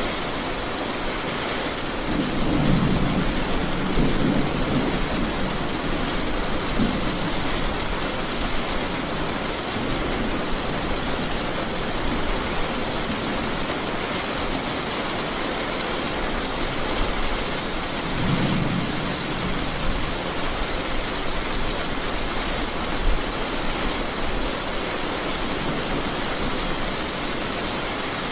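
Steady heavy rain falling, with a low rumble of thunder rolling through twice, a few seconds in and again past the middle.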